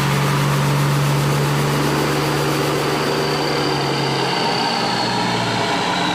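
An engine running steadily, its low pitch dropping a little about four seconds in, over an even hiss.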